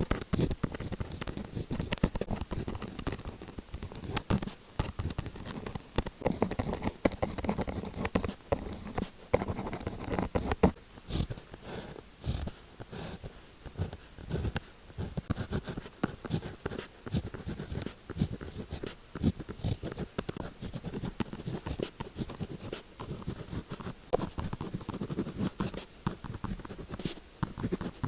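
Close-miked ASMR sound of pen tips scratching and tapping on paper: a dense, irregular run of scratches and small sharp clicks.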